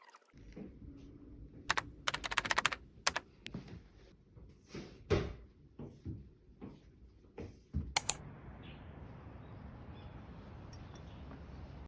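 Irregular clicks and taps of work at a desk, some in quick little clusters, then a faint steady hiss from about eight seconds in.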